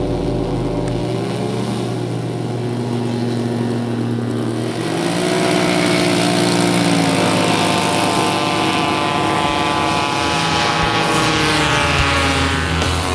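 Radio-controlled model airplane engine running, its pitch rising and falling as it flies.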